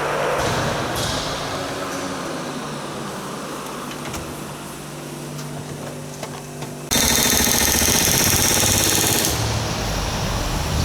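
Workshop hum with a few light clicks, then about seven seconds in a pneumatic tool starts with a sudden loud burst of rapid hammering that lasts about two and a half seconds.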